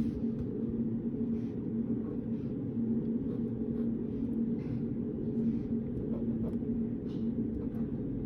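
Study-room ambience: a steady low hum with a faint steady tone, and faint scattered light taps and scratches of pen and paper at a desk.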